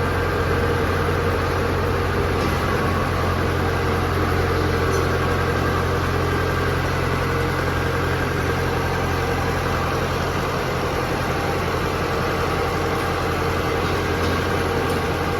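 50-ton H-type mechanical power press running steadily with an even machine hum, its motor and flywheel turning without any clear forging strikes.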